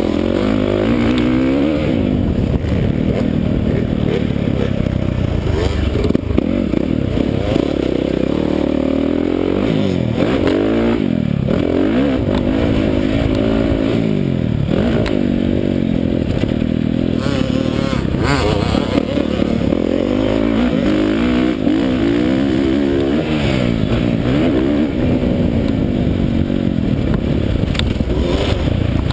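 Dirt bike engine being ridden hard, revving up and dropping off over and over as the throttle is worked, its pitch climbing and falling every second or two.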